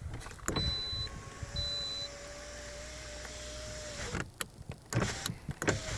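Lada Vesta's driver's-door power window motor running the glass for about three and a half seconds with a steady whine that rises slightly. Several sharp knocks follow. The glass knock it was adjusted to cure is still there.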